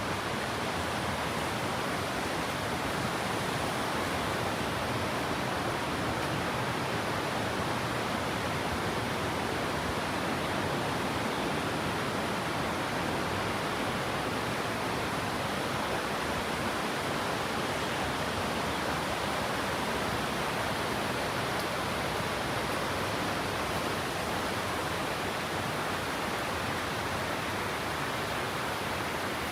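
Steady, even rush of flowing or falling water, with no change in level.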